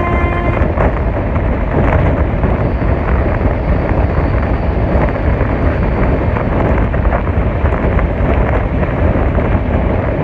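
Shatabdi Express passenger train running at speed: a steady, loud rumble and rattle of the coaches on the track, with occasional faint clicks and wind noise on the microphone.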